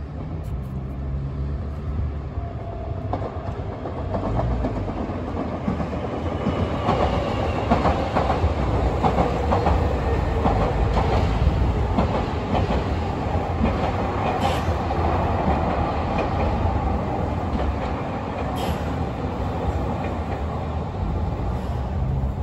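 Nankai Railway electric commuter train passing along the tracks below, its wheels clattering over the track. The sound builds over the first few seconds, is loudest through the middle and eases a little near the end.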